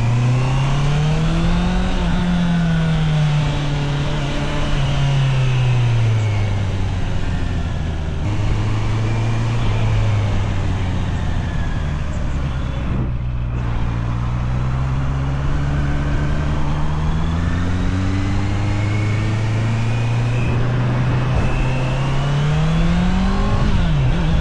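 Honda CBR650R's inline-four engine under way: revs rise, ease off, then climb slowly through a long pull before dropping sharply near the end, over steady wind and road noise.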